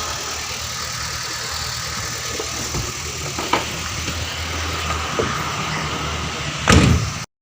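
Daihatsu Gran Max engine idling steadily with fresh oil after an oil change. A couple of sharp clicks come midway and a louder knock near the end, then the sound cuts off abruptly.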